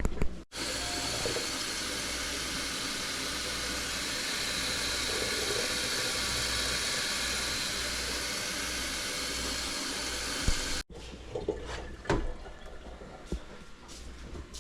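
Water running steadily from a tap, such as when filling a container. It starts and stops abruptly. After it come a few light clicks and knocks.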